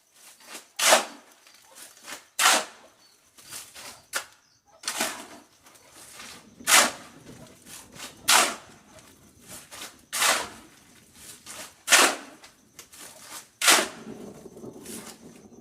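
Gravel being shovelled and tossed into place: a run of short, harsh scrape-and-rattle sounds, about one every one and a half to two seconds, with lighter scraping between them.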